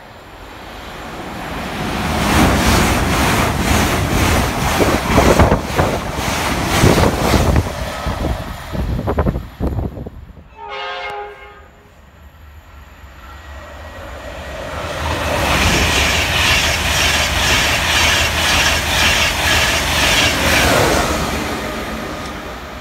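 Two trains pass one after the other, wheels clattering rhythmically over the rail joints. Between them a train horn sounds for about a second. The second train is an InterCity 225 set, a Class 91 electric locomotive with Mark 4 coaches, and its noise fades near the end.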